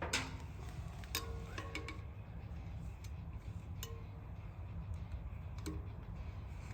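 Small metal parts clicking and clinking as they are handled, with about half a dozen separate sharp clicks, some ringing briefly, over a steady low hum.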